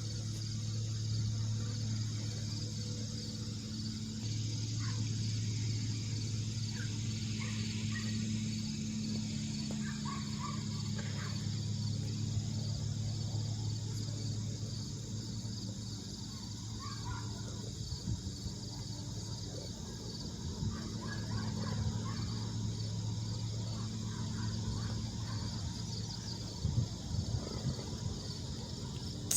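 Outdoor rural ambience: a steady low hum runs under a continuous high insect-like drone, with scattered short bird calls.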